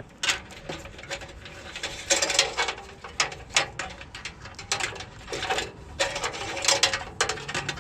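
Irregular clicking, rattling and scraping of old wires being pulled and worked loose from a truck's wiring bundle.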